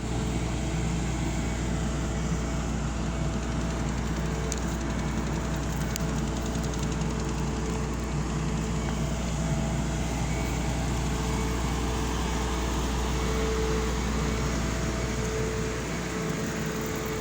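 A large engine running steadily, with a deep rumble and a steady hum.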